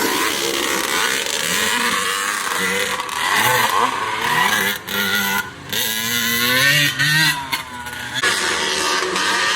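Vintage motocross bike engines racing on a dirt track, revving up and down as the riders work the throttle, with several sudden throttle cuts in the middle seconds.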